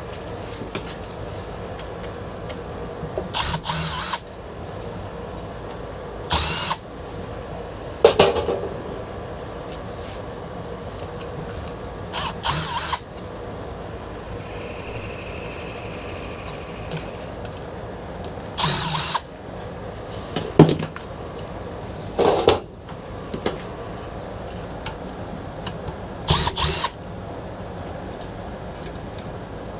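Power drill running in short bursts of about a second each, spaced several seconds apart, backing out the screws that hold a ceiling fan's blades. A few sharp knocks fall between the bursts.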